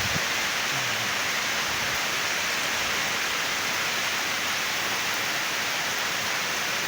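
Heavy rain falling steadily in a rainstorm, a dense even hiss with no breaks.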